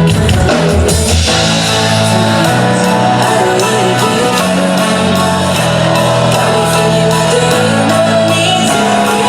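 Live band playing through a stage PA during a sound check: drums at the start, then guitar and sustained chords with some singing.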